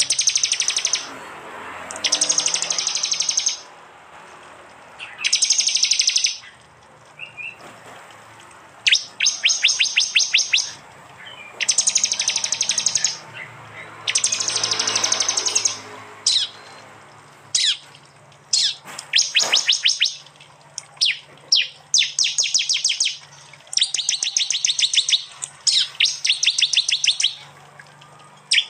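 Prinia (prenjak) calls: repeated loud, high, fast rattling trills, each a rapid string of sharp notes lasting one to two seconds, coming every couple of seconds. Toward the end the bursts come closer together.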